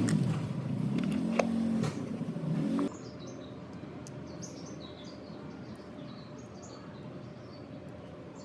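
A loud motor-like hum with a wavering low pitch and a few clicks, which cuts off abruptly about three seconds in. Then small birds chirp over a steady background hiss.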